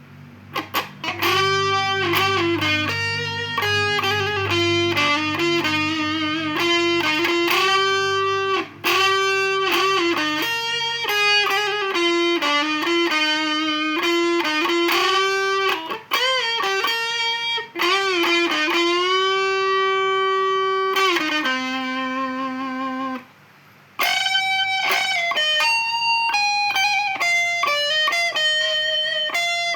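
Guitar playing a slow single-note melody, the notes held and often bent or slid in pitch over a low sustained note that fades out about twelve seconds in. The playing stops for about a second near the three-quarter mark, then the melody resumes.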